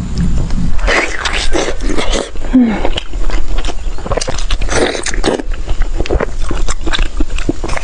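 A person chewing and biting food close to the microphone. Many quick, irregular clicks and wet smacks follow one another.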